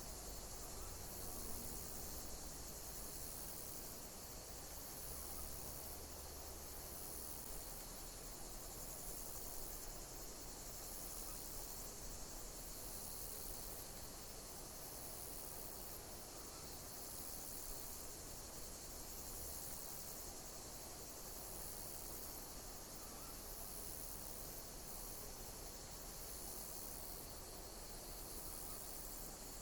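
Insects chirping in a steady high-pitched chorus, with a pulsing trill that repeats about every two seconds over a constant hiss.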